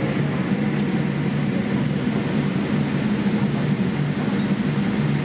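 Steady low vehicle rumble with a faint constant hum.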